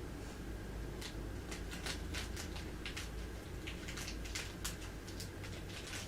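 A cat moving about or handling something: a run of light, irregular clicks and scratches over a low steady hum.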